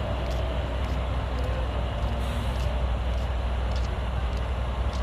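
A heavy engine running with a steady low rumble.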